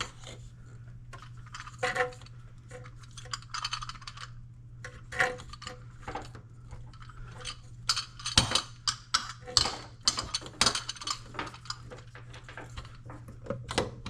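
Clinks, clicks and knocks of kitchen faucet parts and the spray hose being handled and fitted, coming thickest in the second half, over a steady low hum.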